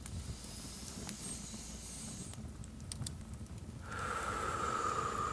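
Fireplace crackling: scattered sharp pops over the fire's low rumble. About four seconds in, a louder steady hiss begins.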